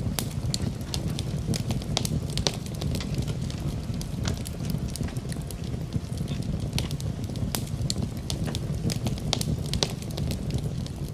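Wood fire in a fireplace crackling: irregular sharp pops and snaps, several a second, over a steady low rushing sound.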